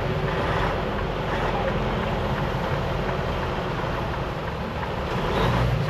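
Semi-truck's diesel engine running steadily with road noise, heard from inside the cab as a constant low rumble.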